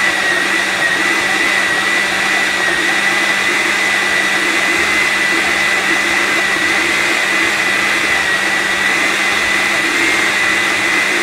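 Hamilton Beach countertop blender running steadily at one speed, blending avocado into a thick pancake batter, with a steady high motor whine.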